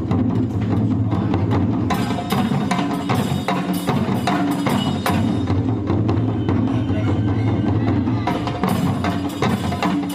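Traditional Japanese percussion music: drums and sharp wooden clacks struck in a quick, uneven rhythm.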